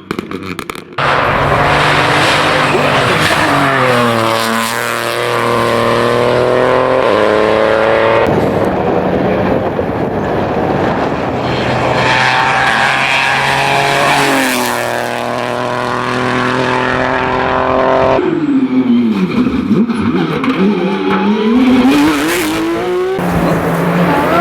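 Rally cars at speed on a stage, engines revving hard and climbing in pitch through the gears, with the pitch dropping and rising again as cars brake and pass. It is several short passes cut one after another.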